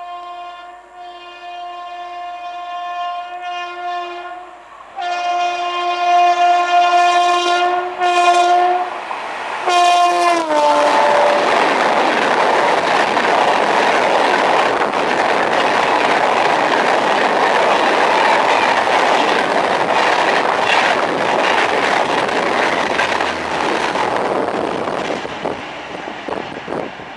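WAP-5 electric locomotive's horn sounding a long chord as the Bhopal Shatabdi express approaches at over 120 km/h, growing louder about five seconds in; near ten seconds the horn's pitch drops sharply as the locomotive passes. The coaches then rush past with a loud, steady noise of wheels on rail and wind.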